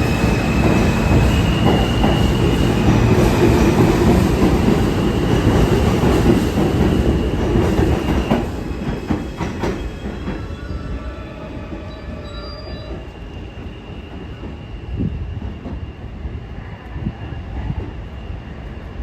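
R160 subway train running past loud, with high wheel squeal, then dying away about eight to ten seconds in as a few sharp clicks of wheels over rail joints pass, leaving a faint rumble.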